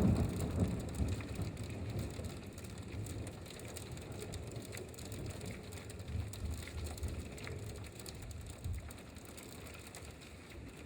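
Hailstorm: a dense patter of small hail and rain striking the ground and surfaces, many sharp little impacts over a steady hiss, heaviest at the start and easing off a little after a few seconds.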